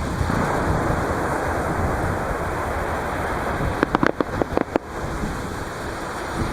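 Waves breaking and washing on the beach at the waterline, a steady surf noise. About four seconds in, a quick run of sharp fireworks cracks, about eight in a second, sounds over it.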